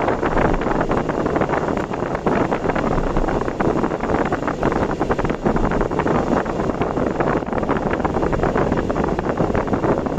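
Steady wind and road noise of a vehicle travelling at speed on an expressway.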